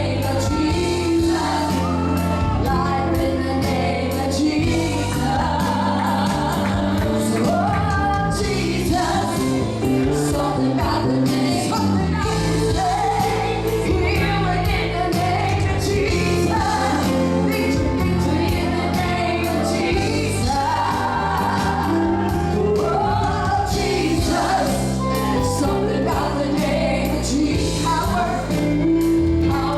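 A worship song in a church service: voices singing a melody over a band, with sustained bass notes changing in steps.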